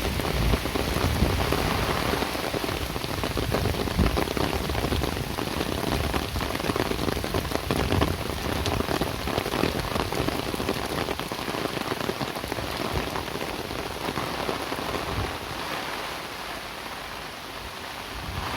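Steady rain falling, a dense patter of drops, with a low rumble underneath that fades away near the end.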